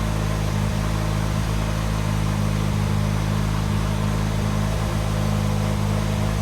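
Austin 1100's A-Series four-cylinder engine idling steadily at an even pitch.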